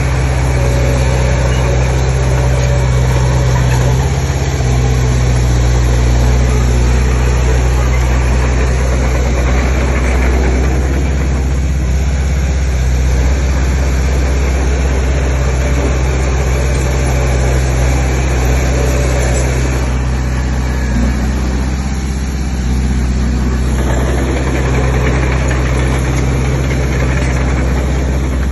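Heavy diesel earthmoving machinery running, a loud, steady low engine note whose pitch and load shift slightly a few times.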